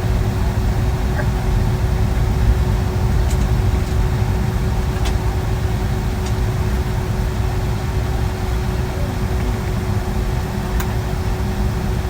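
Steady cabin noise of a Boeing 757-200 airliner: a low engine and airflow rumble with a constant hum, and a few faint clicks.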